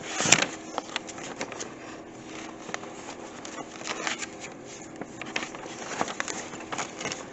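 Paper model-kit instruction booklet being leafed through and handled: scattered short rustles and clicks, the sharpest just after the start.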